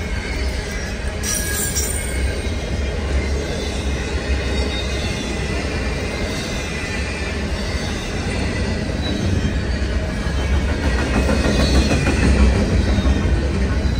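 Double-stack intermodal container train rolling past: a steady rumble and clatter of wheels on rail, growing a little louder near the end.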